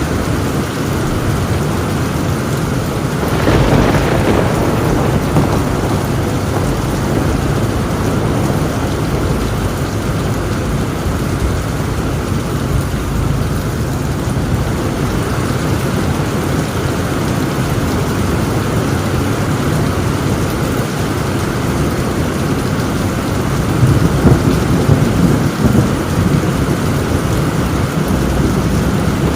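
Heavy rain on a tin roof, a steady downpour, with a clap of thunder about three and a half seconds in and a rumble of thunder near the end.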